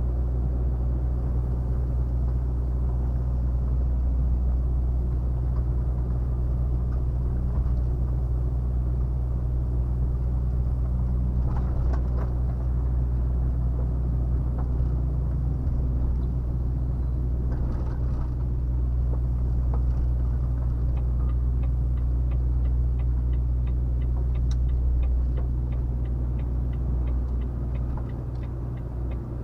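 Volvo FH 460 truck's 13-litre straight-six diesel running steadily under way, a deep constant drone heard from the cab. A regular ticking, about three or four a second, joins in for the last several seconds, and the engine eases off slightly near the end.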